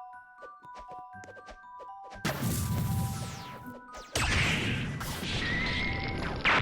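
A few light plucked music notes, then loud noisy crash-like sound effects: one with a falling sweep about two seconds in, and another from about four seconds in.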